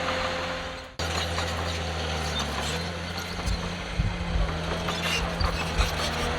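Diesel engine of a heavy earthmoving machine running steadily, cutting out and resuming about a second in, its note stepping a little after that, with scattered low thumps and clanks.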